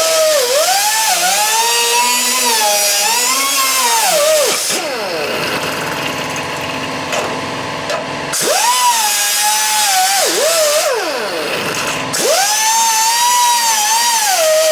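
Handheld power cutting tool cutting through rusted floor sheet metal of a VW Bus. It runs in three passes with short let-ups between them, its whine sagging in pitch as it bites and rising again as it frees.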